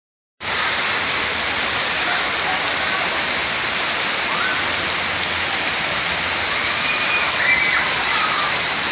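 Heavy rain pouring down, a steady, even hiss that begins a moment in and holds without a break.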